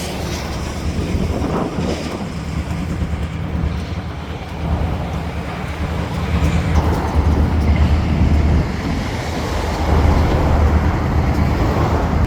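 Steady low vehicle rumble with wind buffeting the microphone, swelling slightly a few times.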